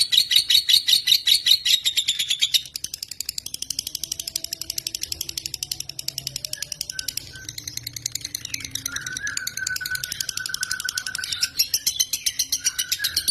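Lovebird chattering in a long, rapid, unbroken trill of high chirps, loud for the first two or three seconds, then softer.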